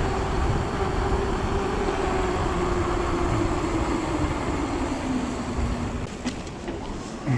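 E-mountain bike's electric motor whining under pedalling, its pitch slowly falling, over steady wind and tyre noise. A few clicks near the end.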